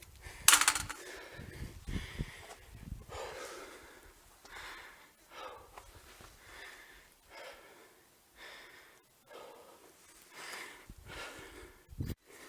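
A hiker breathing hard, with steady in-and-out breaths about once a second; a sharp knock about half a second in, and another near the end.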